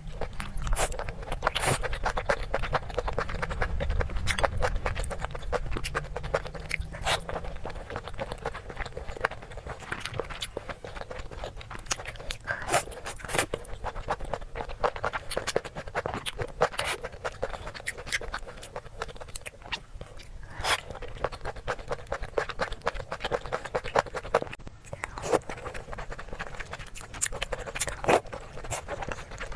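A person chewing and biting into food, with many short sharp clicks coming at an irregular pace.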